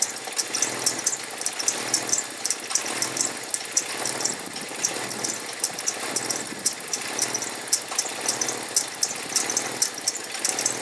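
1998 Jeep TJ Wrangler's 2.5-litre four-cylinder engine idling low and unevenly, the idle going up and down, with a rapid clicking throughout. The hunting, low idle is what the owner blames on a failing throttle position sensor.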